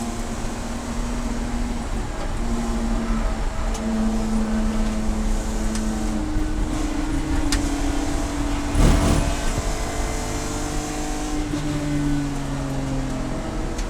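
Race car engine running at speed on track, its note holding and then stepping to new pitches as the revs change. There is a short knock about nine seconds in.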